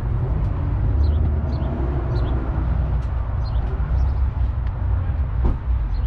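Outdoor ambience: a steady low rumble with small birds chirping over it, short high chirps repeating every half second or so, and one sharp click near the end.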